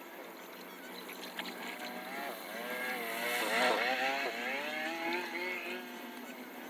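A motor vehicle's engine passes by, its pitch wavering up and down and its level swelling to a peak about halfway before fading, over a steady hiss.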